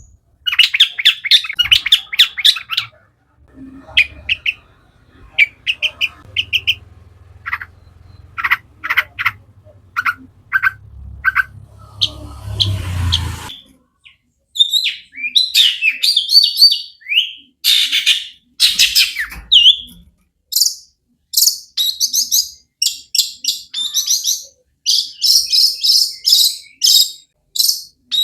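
A long-tailed shrike (cendet) sings in rapid bursts of harsh, chattering notes and sharp chirps, packed with mimicked calls of other birds. A brief hissing rumble comes midway.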